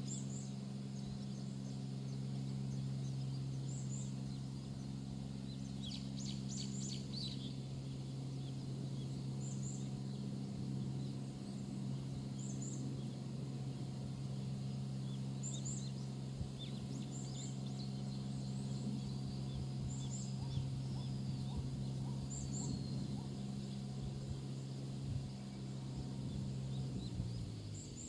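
Outdoor ambience beside a rice paddy: a steady low hum runs under short, high double chirps that come every couple of seconds; the hum drops away near the end.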